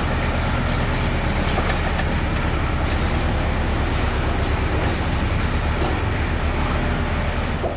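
A heavy vehicle engine running steadily close by, with a fast, even low throb under a loud rush of noise.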